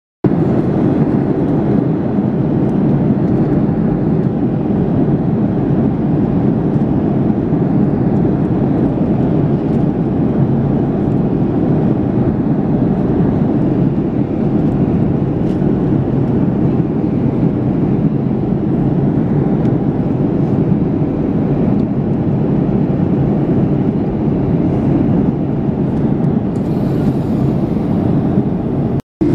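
Boeing 737-800 cabin noise in flight: the steady rush of airflow and CFM56 turbofan engines, heard from a passenger seat. It cuts out briefly near the end.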